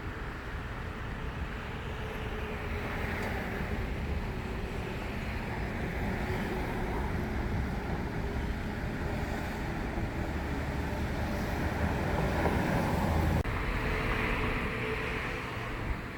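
Street traffic noise: the steady rumble of passing cars, slowly growing louder toward a peak late on, with an abrupt break shortly after.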